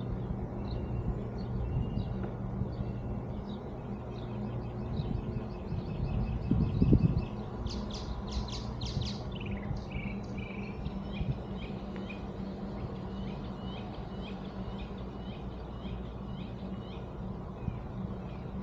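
Small birds chirping repeatedly, with a few loud, sharp notes in a row about eight seconds in. Under them is a steady low rumble, with a louder low thump-like burst just before the sharp notes.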